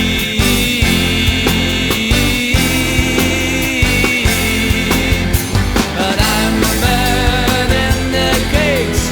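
Rock band music, an instrumental passage: a steady drum beat and bass under a long held high note that gives way, about halfway through, to bending melodic lines.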